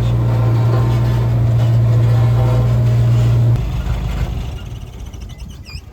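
Diesel engine of heavy construction machinery running with a steady low hum, which drops away suddenly about three and a half seconds in.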